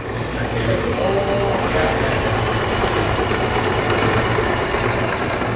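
A steady mechanical running noise with a low hum starts abruptly and holds evenly.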